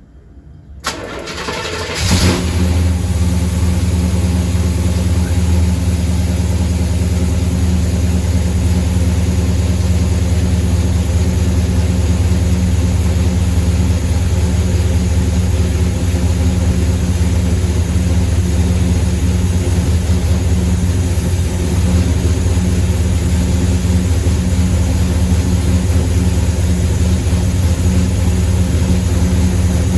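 1977 Chevy Camaro engine starting: the starter cranks briefly about a second in, the engine catches about two seconds in, then it runs steadily.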